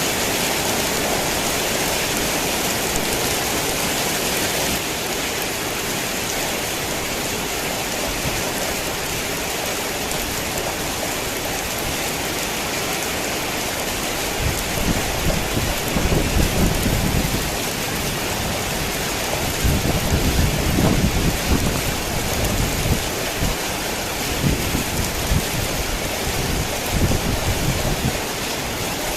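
Steady heavy rain falling, a dense even hiss. From about halfway through, low rolls of thunder rumble in and out several times.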